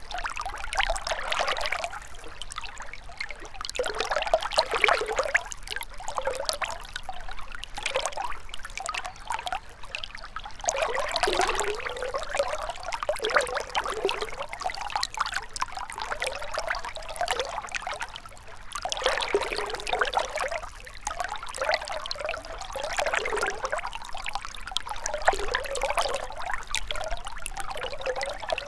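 Gentle river water trickling and babbling, with splashy, bubbly gurgles that swell and ease every few seconds.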